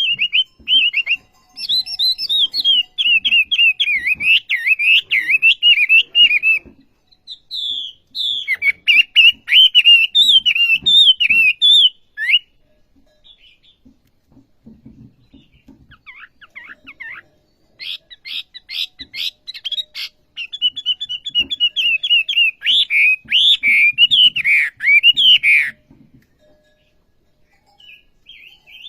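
A caged wambi songbird singing in long bouts of rapid, warbling chattering notes, with pauses of a few seconds between the bouts.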